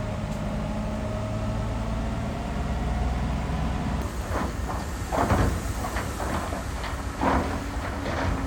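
Heavy diesel construction machinery running with a steady low drone and a whine through the first half. From about halfway it is joined by a run of irregular knocks and clanks.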